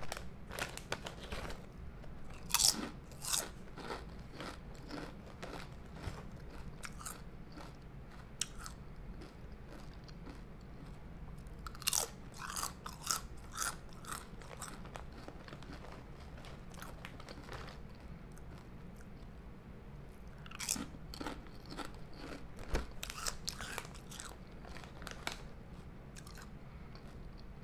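Crunchy potato chips being bitten and chewed, in three spells of crisp crunching with quieter stretches between.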